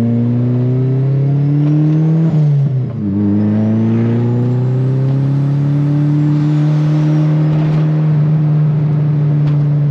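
Turbocharged 1.8T four-cylinder engine pulling hard through a gear, shifting up about two and a half seconds in, then pulling again and holding at high revs. A faint high whine rises with each pull.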